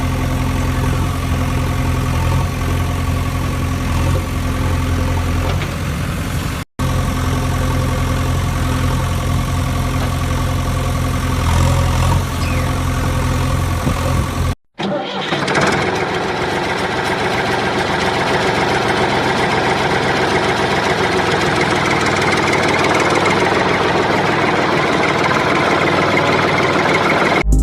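An engine running steadily with a low, even hum, broken off abruptly twice, about 7 and 15 seconds in. After the second break, a higher, rougher mechanical whirr without the low hum takes over.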